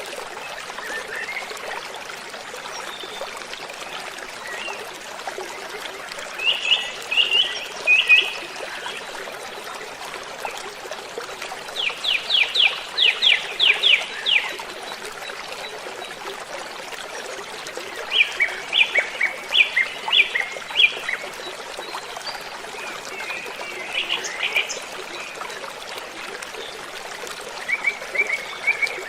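Waterfall rushing steadily, with songbirds singing short bursts of quick high notes over it every few seconds, among them a fast run of about eight descending notes.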